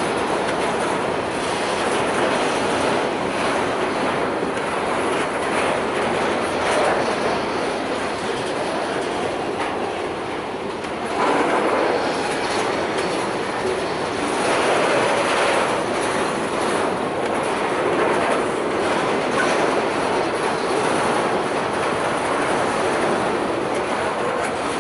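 Freight train's covered hopper wagons rolling past close by: a steady rumble and rattle of steel wheels on the rails, swelling and easing slightly as the wagons go by.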